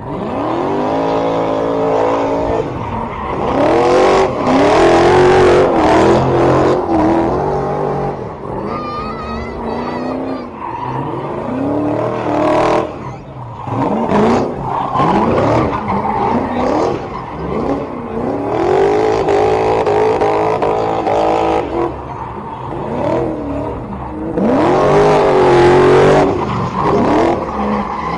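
A car engine revving hard, its pitch climbing and dropping again and again, with stretches of loud tire noise in between, as in a drifting or burnout display.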